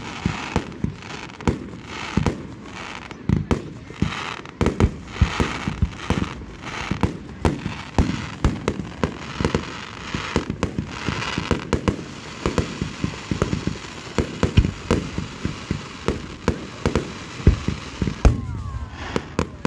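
Fireworks display: a quick, continuous run of sharp bangs from bursting shells, several a second, with stretches of crackling between them.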